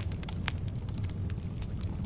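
Wood fire burning in a fireplace: frequent crackles and sharp pops, a loud one at the start and another about half a second in, over a steady low rumble of the flames.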